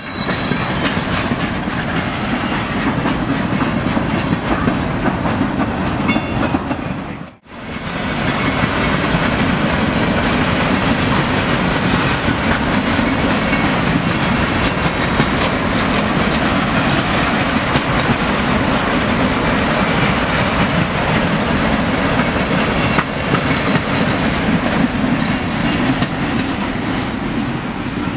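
Freight cars rolling past close by, a steady rumble and clatter of steel wheels on the rails, dropping out briefly about seven seconds in.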